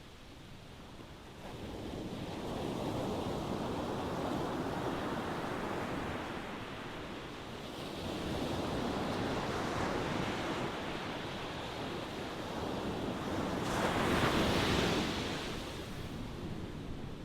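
Ocean waves washing onto the shore: a rushing surf noise that swells and eases in slow surges, the biggest wave breaking about fourteen seconds in.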